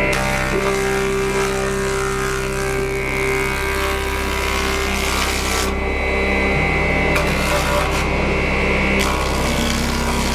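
Tool working wood with a rough rubbing, rasping sound over a steady machine hum. The hum shifts pitch abruptly about three and a half seconds in, and again a few seconds later.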